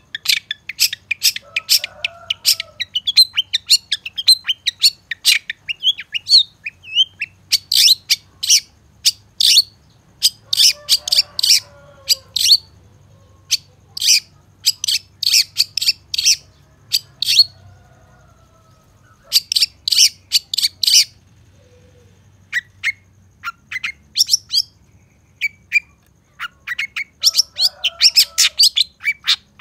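Long-tailed shrike (cendet) singing: rapid runs of sharp, high notes in groups a few seconds long, with short pauses between them. A faint low hum lies underneath.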